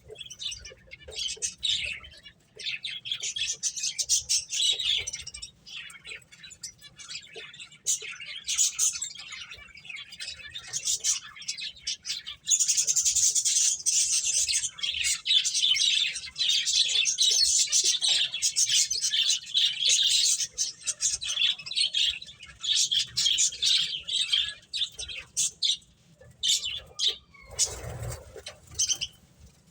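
Several pet finches chirping, a busy stream of short high-pitched calls that grows denser and more continuous for several seconds in the middle. There is a dull low bump near the end.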